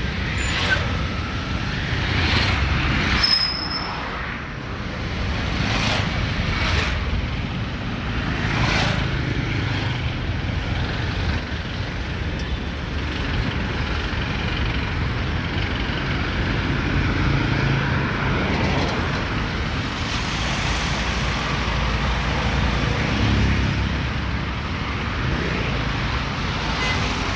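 Road traffic passing close by: engines and tyres of cars and trucks run as a steady rumble. Several brief sharp sounds and short high squeals break through in the first half.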